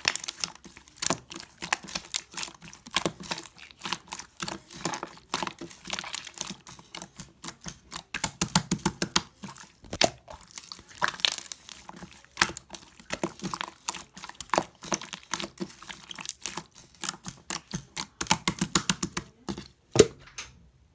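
Slime being squeezed and poked by hand: a continuous run of sticky clicks and small pops, thickening into quick crackly flurries around the middle and again near the end.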